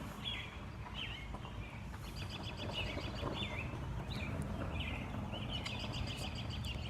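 Songbird singing outdoors: short phrases of rapid, high trilled notes repeated every second or so, over a steady low background rumble.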